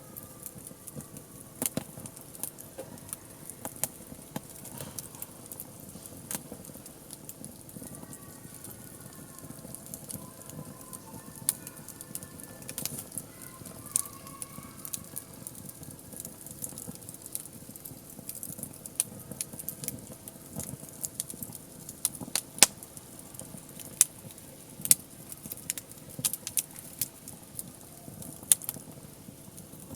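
Wood campfire burning, crackling steadily with irregular sharp pops; the loudest pop comes about two-thirds of the way through.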